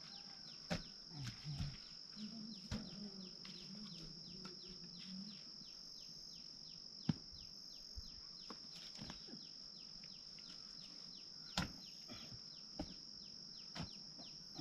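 Outdoor field ambience: a steady high-pitched drone and a quick, even run of short falling chirps, about three a second, with a few sharp knocks scattered through it.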